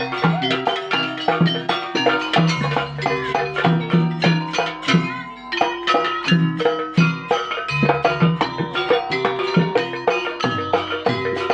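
Live instrumental music from a traditional percussion ensemble. Fast, dense strikes on pitched instruments run over a repeating low drum pattern, with a brief lull about five seconds in.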